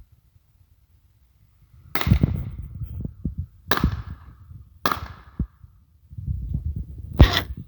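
Four sharp shots from a hunting gun, spaced one to two seconds apart, each with a short ringing tail, over a low rumble.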